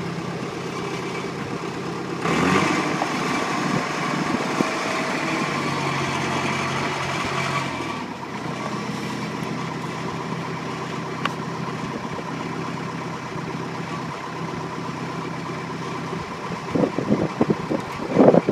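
An engine running steadily at idle, with a louder, rougher stretch of added noise from about two seconds in to about eight seconds.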